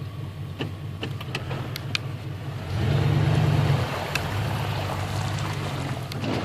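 Car engine running while driving through shallow floodwater. The engine swells for about a second around three seconds in, under a rushing wash of water.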